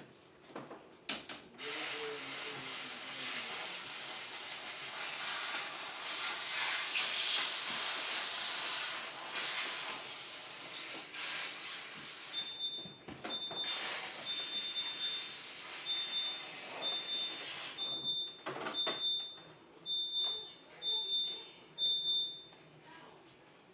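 A loud steady hiss lasting about ten seconds, then breaking off and returning in shorter rushes. About halfway through, a high-pitched electronic beep starts pulsing on and off, the kind a refrigerator gives when its door has been left open.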